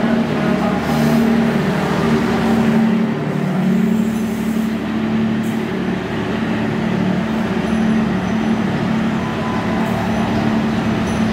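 Passenger train rolling out of the station: a steady, loud rumble of wheels and running gear with a low steady hum underneath, as the train draws away.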